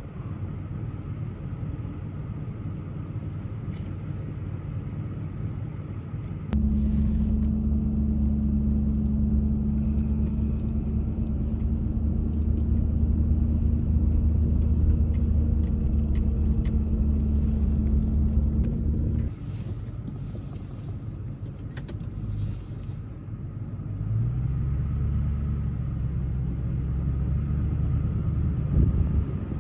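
Vehicle engine running while driving, working harder with a louder, steady drone from about six seconds in until about nineteen seconds, then easing off before picking up again with a rise in pitch near the end.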